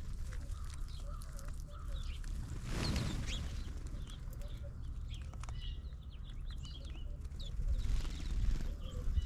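Several birds chirping and calling in short, scattered notes, over a steady low rumble. There is a brief noisy surge about three seconds in.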